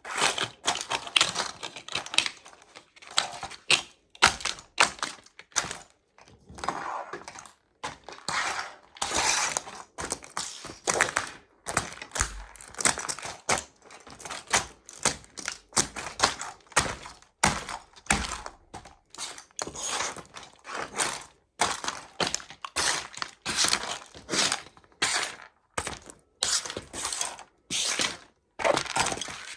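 Toy model trucks being crushed underfoot by sneakers: a long run of irregular cracks, snaps and crunches, several a second, as the toys break apart.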